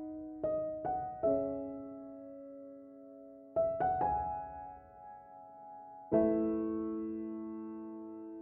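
Soft background piano music: slow single notes and chords that ring on and fade between strikes.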